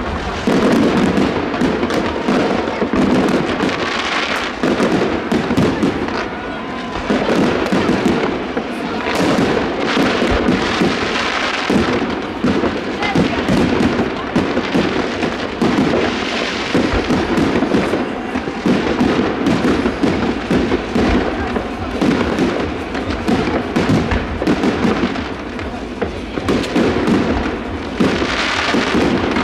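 Aerial fireworks bursting overhead, a dense, continuous run of bangs and crackling, over the voices of a large crowd.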